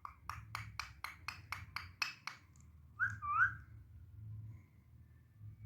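Indian ringneck parrot calling: a quick series of about ten short, sharp chirps over the first two seconds, then one short whistled call that bends up and down about three seconds in.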